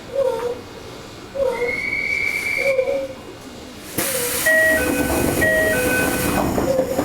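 Inside a Toei 5300 series train: a brief steady whistle-like tone, then a sudden hiss of compressed air about four seconds in, followed by a two-note electronic chime alternating several times.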